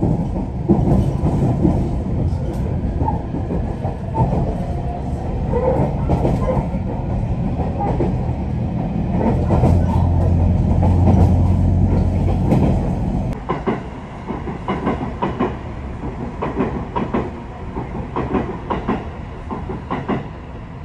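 Train running at speed, heard from inside the passenger carriage as a loud, steady low rumble of wheels on rail. About 13 seconds in the rumble drops away to a lighter rattle with scattered clicks and knocks.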